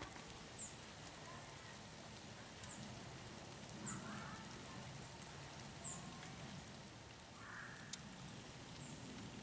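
Quiet winter ambience: a faint, steady patter of falling snow, with about five short, high, falling bird chirps scattered through it.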